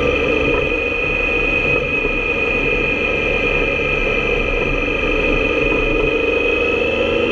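Motorcycle engine running at a steady speed under wind rush on the camera microphone, with a steady high whine held throughout.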